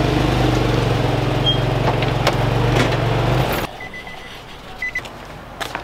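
Steady car road noise with a low engine hum heard from inside the moving car, which cuts off abruptly about three and a half seconds in. It gives way to quieter surroundings with a few light clicks and two short electronic beeps.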